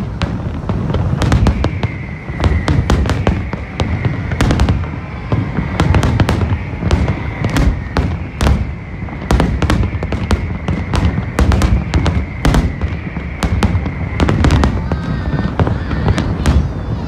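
Aerial fireworks bursting in rapid succession: many sharp bangs over a continuous deep rumble.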